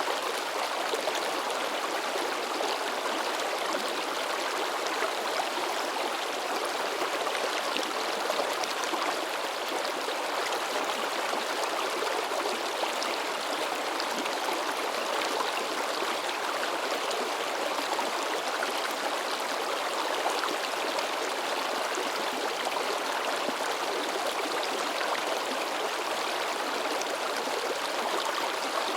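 River babbling and splashing over rocks: a steady, unbroken rush of flowing water.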